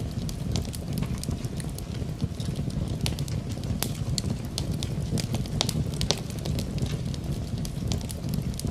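Wood fire crackling in a fireplace: frequent, irregular sharp pops and snaps over a steady low rush, mixed with rain.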